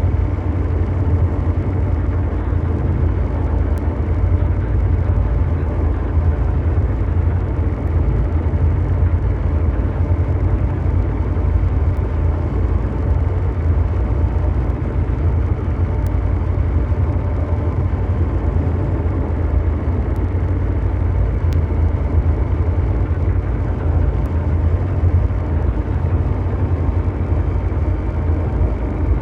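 Continuous ambient mechanical drone: a steady, deep, engine-like rumble over a bed of brown noise, unchanging throughout, with faint ticks every few seconds.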